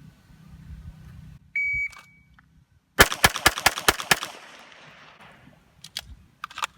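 A shot timer's start beep, then about a second and a half later six pistol shots fired in rapid succession, roughly a fifth of a second apart, with echo trailing after the string: a Bill Drill draw and six-shot string.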